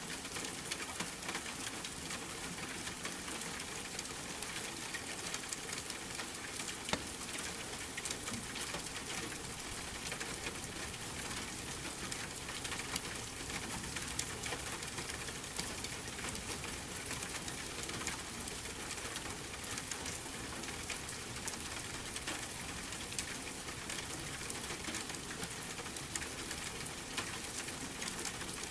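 Steady rain with many small crackles and pops, as of a wood fire burning in a fireplace, continuing evenly without pause.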